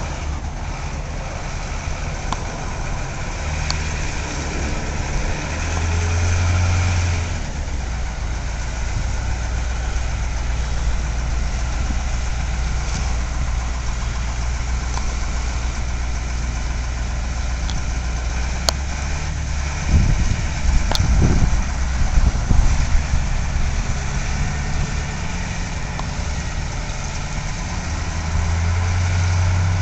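Medical helicopter's engine and rotor running steadily with a low hum. A few louder low rumbling thumps come about twenty seconds in.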